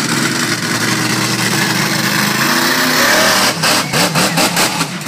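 Monster truck engine running loud and steady, then the sound pulsing rapidly, about four or five times a second, over the last second and a half.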